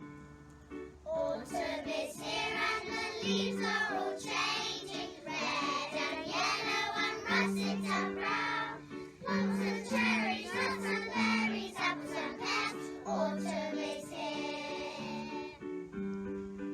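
Children singing together over backing music, the singing coming in about a second in.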